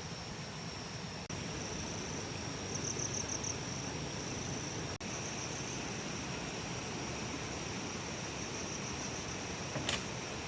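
Insects singing outdoors: a steady high-pitched whine with short pulsing trills every few seconds, over a steady hiss. There is a single sharp click just before the end.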